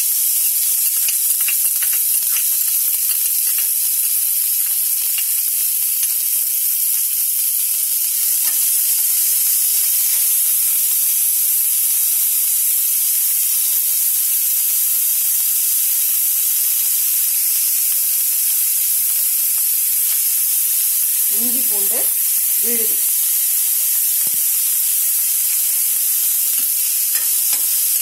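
Chopped onions sizzling steadily in hot oil in a kadai, with a spatula scraping and stirring them now and then.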